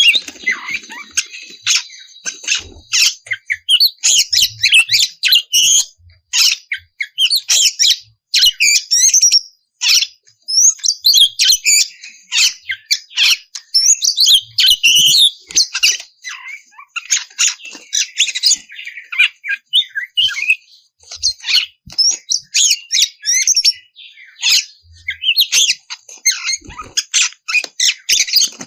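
Oriental magpie-robin (kacer) singing without a break: quick, varied phrases of whistles mixed with harsh, scratchy notes, separated by short pauses. This is a lure song meant to set a caged magpie-robin singing.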